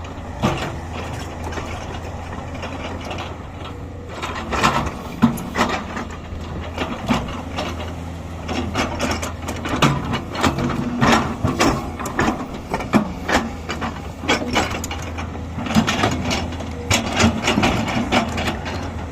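JCB excavator at work: its diesel engine runs steadily under many irregular knocks and clanks, as of the bucket striking rock and soil.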